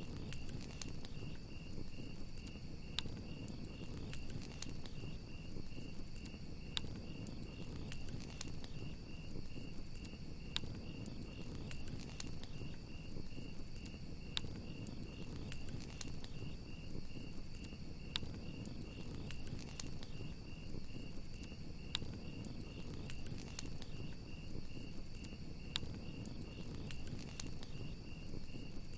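Campfire crackling with scattered sharp pops over a low rumble of burning wood, under the steady, evenly pulsed chirping of crickets.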